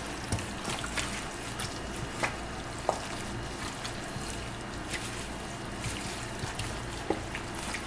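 Raw chicken pieces being mixed by hand in a wet vinegar marinade: soft wet squelches and small scattered clicks over a faint steady hiss.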